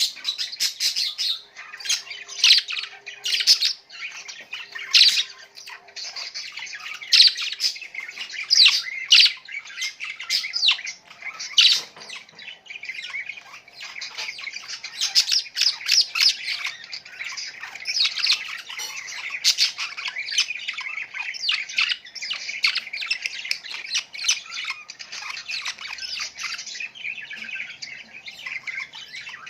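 Many birds chirping and squawking together: a dense, continuous chatter of short, high calls overlapping one another.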